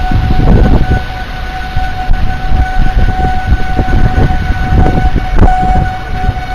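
Strong storm wind gusting and buffeting the camera's microphone in a severe thunderstorm, with a steady high-pitched tone held at one pitch throughout.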